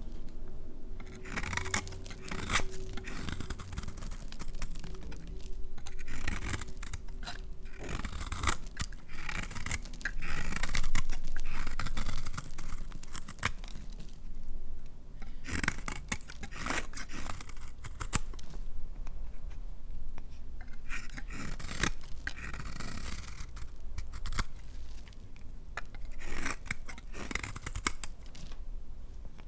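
Knife cutting dry laundry soap: a run of irregular scraping strokes with many short, sharp clicks.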